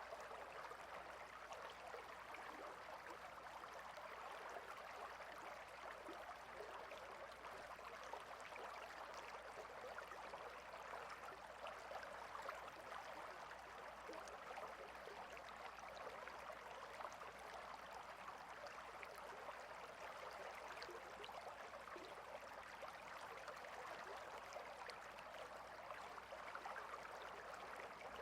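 A small stream flowing steadily over its bed, a faint, even babble of running water.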